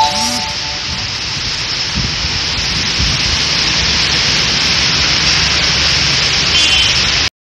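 Heavy rain pouring steadily, a dense even hiss; it cuts off abruptly near the end.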